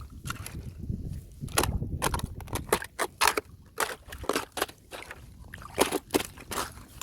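Thin fresh ice being crunched and cracked, a string of irregular sharp snaps and crackles.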